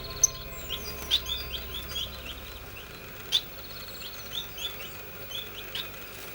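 Small aviary finches chirping, a busy run of short high calls with a few sharper, louder peeps standing out. Low background music fades out in the first half.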